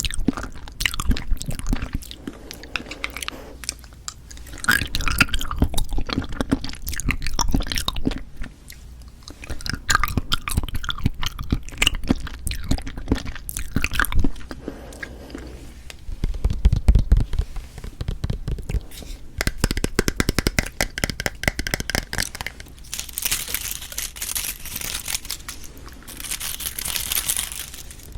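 Close-miked mouth sounds of eating citrus cup jelly: repeated wet chewing and biting in bouts with short pauses between them. Near the end there are a few seconds of hissing, high-pitched noise.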